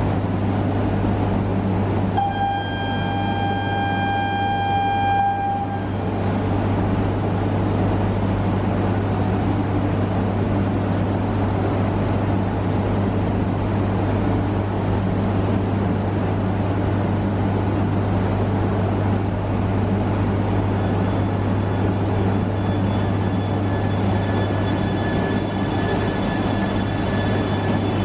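An E3-series Shinkansen (the GENBI SHINKANSEN) stands at the platform over a steady low electrical hum. About two seconds in it sounds a single horn tone lasting about three seconds. Near the end a faint high whine comes in as it starts to pull away.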